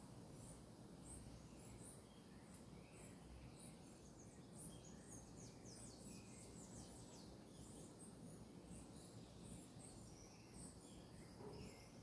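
Faint outdoor birdsong: several birds chirping, one with thin high chirps repeated about twice a second, others calling lower and less often, with a few quick falling notes midway.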